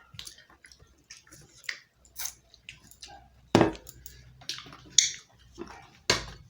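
Close-up eating sounds: chewing with scattered short crunches and clicks, and a few louder sharp bites, as of raw onion, about halfway through and near the end.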